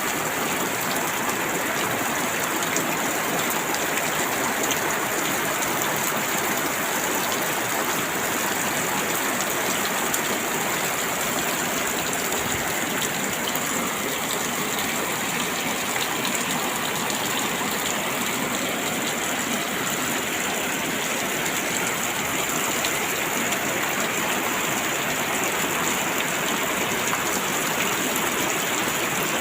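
Steady rain falling, a continuous even hiss with fine pattering.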